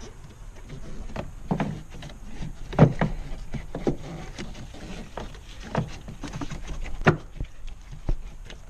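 BMW E46 cabin air filter housing being fitted back into place: irregular knocks, clicks and rubbing as it is handled and seated, with two louder knocks about three seconds in and about seven seconds in.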